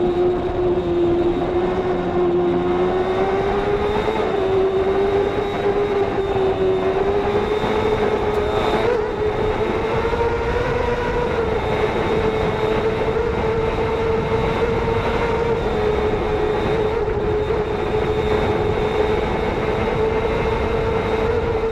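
A racing motorcycle's engine held at high revs at full speed, with wind rush. Its steady high note drifts slowly up in pitch over the first ten seconds or so, then holds, with only small dips.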